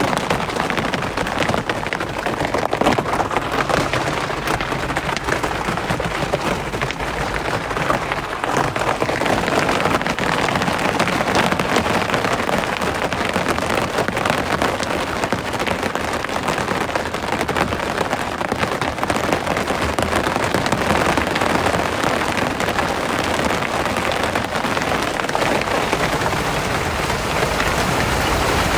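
Steady rain: a dense, even hiss with many separate drop hits, running without a break.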